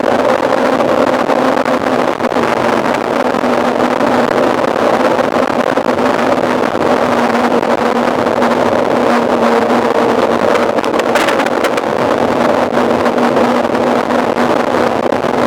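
Wind rushing over the microphone of a camera riding on a moving mountain bike, a steady noise with a low hum under it throughout.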